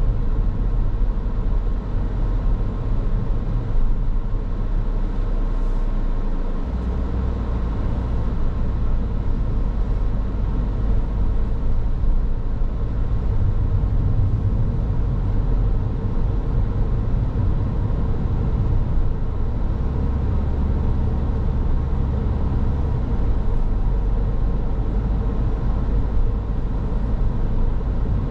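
Car driving on the road: a steady low rumble of tyre and engine noise with a faint even hum. The low rumble shifts about six seconds in and again around twenty seconds in.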